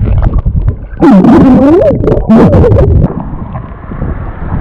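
A person's loud, wavering vocal cry that slides down and up in pitch for about two seconds, close to a waterproof action camera. Low water and wind rumble on the microphone runs underneath.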